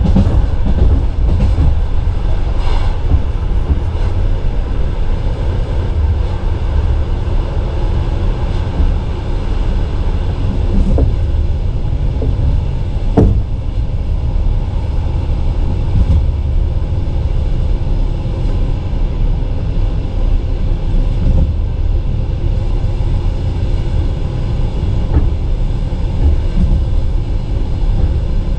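Passenger train carriage running at speed: a steady rumble of wheels on the track, with a few single sharp knocks.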